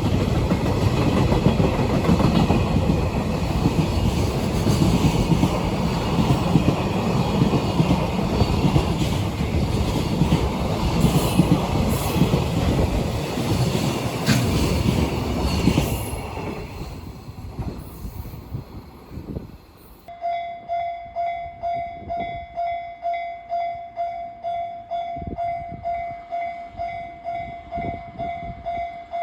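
A train passing close by at speed, wheels rattling over the rail joints, then fading away. After that comes a regular ringing signal, about one and a half strokes a second.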